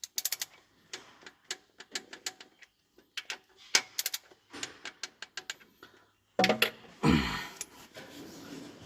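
Metal clicking from a wrench tightening a valve-adjuster locknut on a Cummins QSX15 diesel's rocker arm, set to a low 6 foot-pounds, in quick irregular runs of clicks. About six seconds in, a louder, longer noise takes over.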